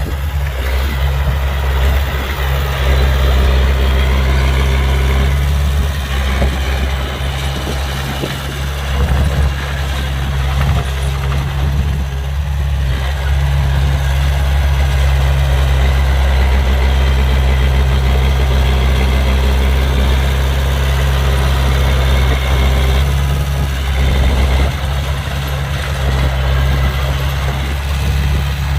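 An engine running steadily at idle with a deep, even hum.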